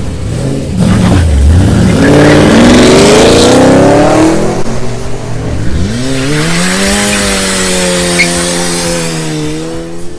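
Car engine revving hard, rising twice and then held at high revs while the tyres spin and squeal: a burnout.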